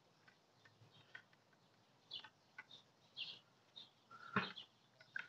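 Faint, scattered bird chirps, with one sharp click about four seconds in.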